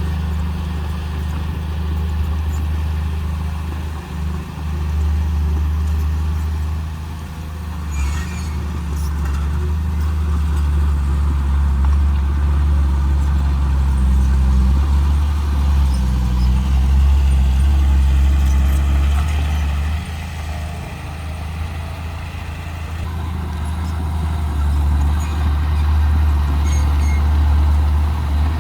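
Heavy diesel engine of earthmoving machinery running under load, growing louder and easing off as the load changes, with a few short knocks.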